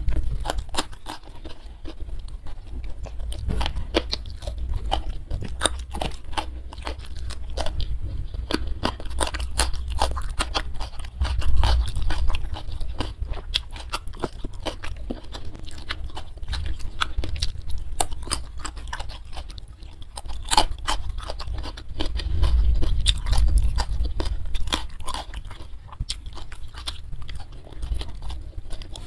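Close-miked chewing and crunching of a mouthful of food: many sharp, irregular wet mouth clicks over a low rumble. The food being eaten includes sliced jengkol and rice with sambal.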